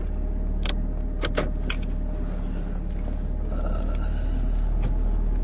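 Steady low rumble, like road noise inside a moving car, with a handful of small sharp clicks over it, two close together about a second and a quarter in.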